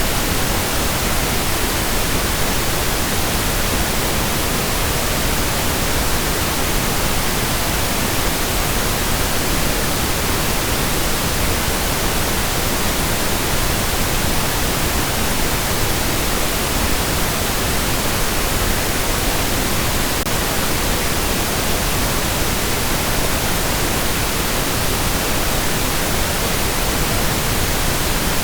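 Steady pink noise: an even, continuous hiss, fuller in the low end than white noise, without change or interruption.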